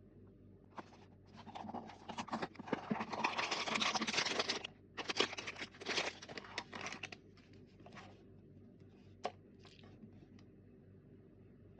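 Blind box packaging being torn open and crinkled by hand: a run of tearing and rustling that starts about a second in and is loudest for a couple of seconds, then shorter crinkles, and later a single sharp click.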